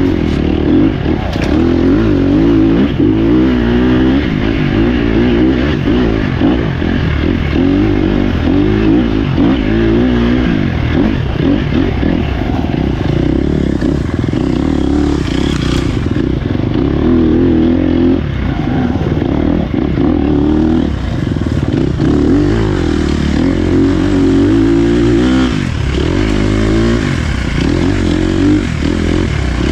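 Dirt bike engine running hard as the bike is ridden along an off-road trail, its pitch rising and falling constantly with the throttle and gear changes.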